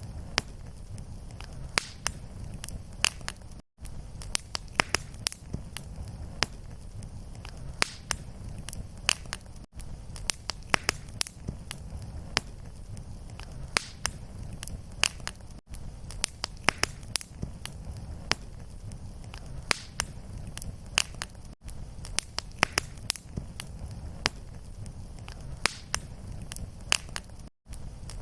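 Fireplace fire crackling and popping with many sharp snaps over a steady low rumble. Brief gaps of near silence fall about every six seconds, where the short fire recording loops.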